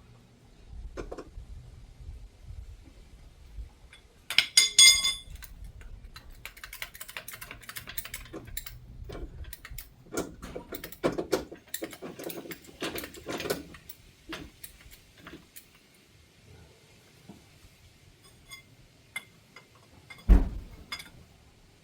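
Metal tools and car parts clinking and rattling as they are handled, with a ringing metallic clang about four and a half seconds in and a heavy thud near the end.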